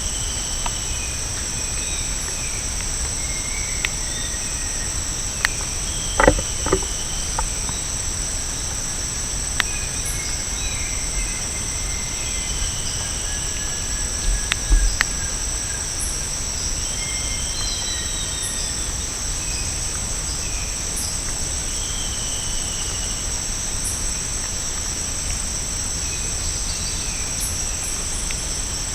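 Steady, high-pitched chorus of tropical rainforest insects, with scattered short bird calls over it and a few knocks, the loudest about six seconds in and again about halfway through.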